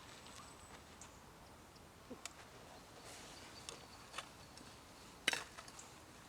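Sparse light clicks and taps from camp cooking gear being handled, with one sharper click about five seconds in.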